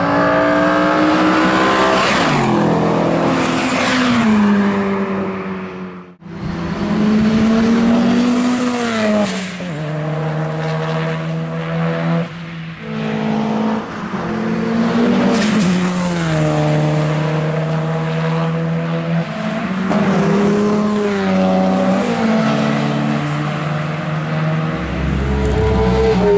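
Turbocharged 2.3-litre stroker four-cylinder of a 520 hp Mitsubishi Lancer Evolution VI driven hard on track in a series of fly-bys: the engine note climbs under acceleration and drops away as the car passes, again and again, with a thin high whistle over the top. The sound breaks off abruptly about six seconds in before the next pass.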